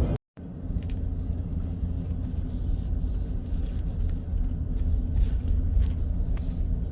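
Steady low rumble of a vehicle driving along a road, picking up after a momentary cut to silence at the start.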